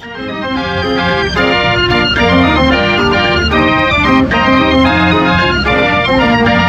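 Organ music: a quick tune of shifting notes and chords over a pulsing bass line.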